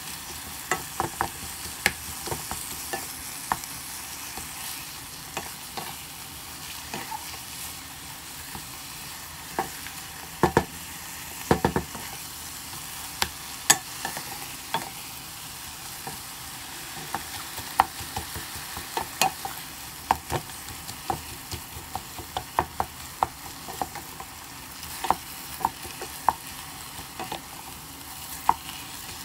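Ground meat, onion and tomato frying in an enamel-lined pot with a steady sizzle, stirred with a wooden spoon that knocks and scrapes against the pot in irregular taps, with a few louder knocks a little before halfway.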